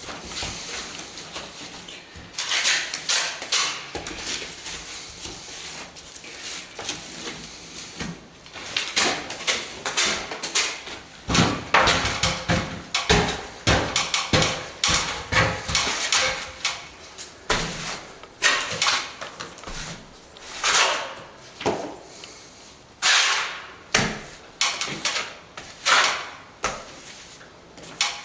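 Plastering trowel scraping across a wall in a long run of short, irregular strokes, sparser at first and coming thick and fast from about eight seconds in.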